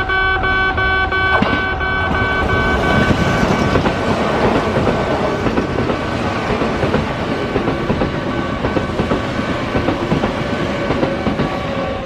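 Kintetsu electric train running past on the track, its wheel and rail noise building about two seconds in and staying loud. Steady held tones sound at the start and cut off with a click a little over a second in.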